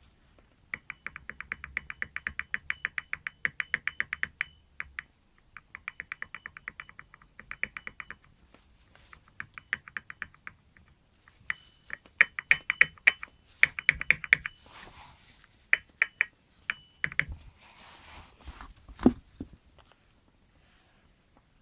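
Front suspension strut on a Nissan Qashqai knocking after replacement: rapid sharp clicks, about nine a second, in runs of a few seconds with short gaps. Near the end there is a stretch of hiss and one heavier thump.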